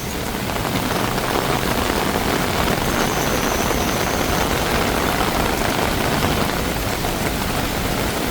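Heavy tropical rain pouring down and splashing, a steady dense hiss.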